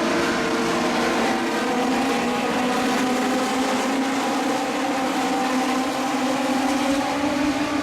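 Several Legends race cars, with their motorcycle engines, running at high revs together as the field goes round the track. The engine pitch sags a little midway and climbs again near the end.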